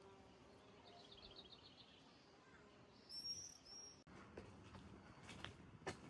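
Quiet outdoor ambience with faint songbird calls: a short rapid trill about a second in, then two high chirps around the middle, the loudest sounds. A few light clicks follow near the end.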